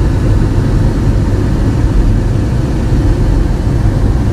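Steady low rumble of a motor vehicle driving, engine and road noise with no change in pitch.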